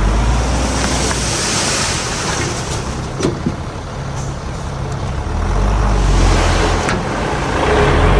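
Heavy diesel earthmoving machinery running, a deep engine rumble that swells near the start and again in the last few seconds, with a couple of sharp knocks a few seconds in.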